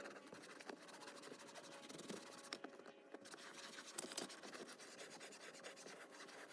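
Faint scratching and rubbing, with scattered small clicks and a few sharper ones.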